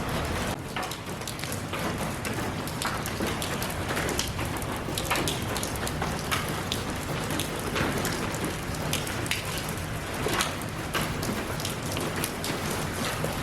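Steady rain falling, an even hiss scattered with the clicks of individual drops striking a surface.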